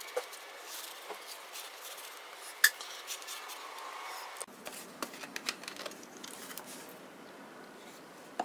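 Faint hand-work sounds of preparing and fitting a new spin-on oil filter: scattered light clicks and rubbing, with one sharper click about a third of the way in and a flurry of small clicks past the middle.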